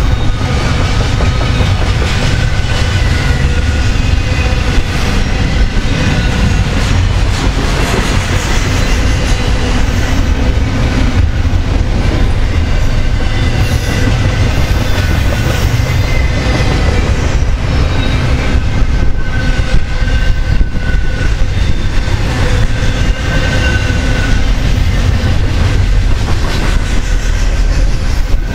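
Double-stack intermodal well cars of a long freight train rolling past close by: a steady, loud rumble of steel wheels on rail with clicking over the rail joints. Thin high squealing tones from the wheels come and go.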